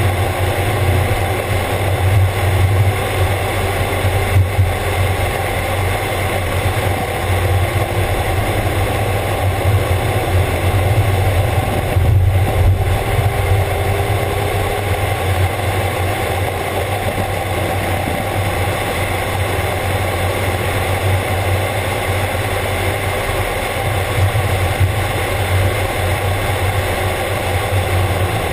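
Mazda Miata's four-cylinder engine running hard through a track lap, heard from the open cockpit under heavy wind rush, its pitch rising and falling gently with throttle and gears.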